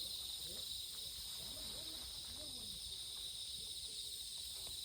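Steady high-pitched drone of a summer insect chorus.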